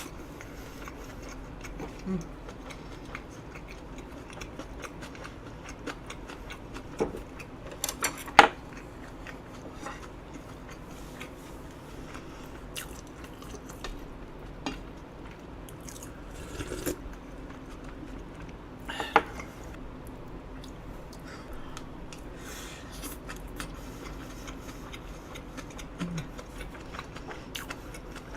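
Close-miked eating: chewing, with scattered clicks and knocks of utensils against a dish; the loudest knocks come about eight seconds in and again near nineteen seconds.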